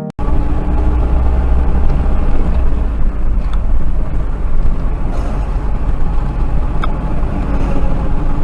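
Steady low rumble of a car's engine and tyres on the road while driving, as picked up by a dash camera's microphone, with a few faint ticks.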